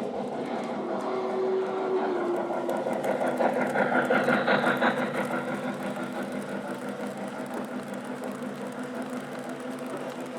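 O-gauge Lionel model train running on its track, with electronic railroad sounds playing from its onboard speakers over the hum and rattle of the running gear. The sound swells about three to five seconds in, then eases off.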